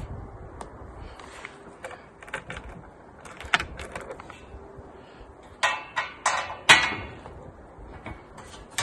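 Metal scroll saw stand parts, angle legs, nuts, bolts and washers, being handled and fitted together: scattered light clinks, with a louder clank about three and a half seconds in and a run of clanks between five and a half and seven seconds.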